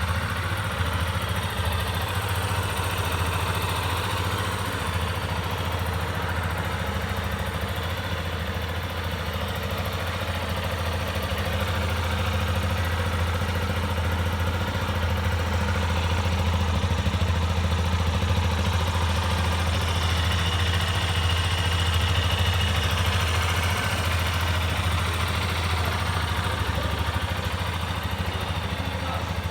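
Yamaha Tricker's 250 cc air-cooled single-cylinder engine idling steadily after being started.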